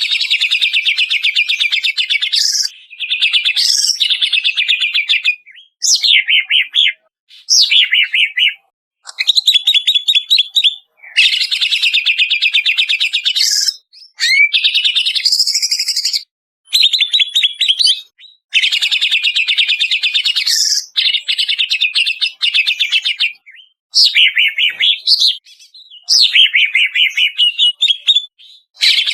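Cucak ijo (green leafbird) singing loudly: about a dozen phrases of fast, buzzy trills, some ending in sweeping whistled notes, each lasting one to three seconds with short pauses between them. This is the repeated song used as a masteran to coax a caged cucak ijo into singing.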